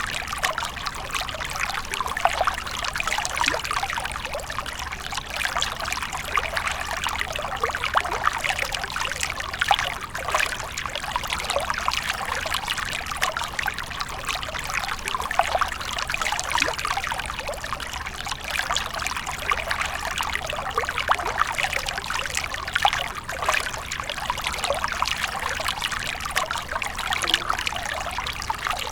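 Water fountain splashing and trickling steadily, a continuous stream of small splashes.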